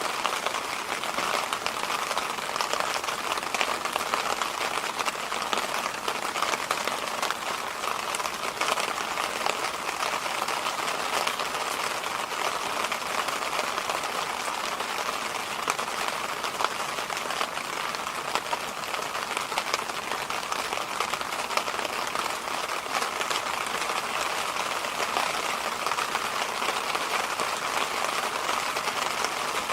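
Electric fan running steadily: an even, unbroken rushing noise, strongest in a band around the middle of the range, with a faint fine crackle.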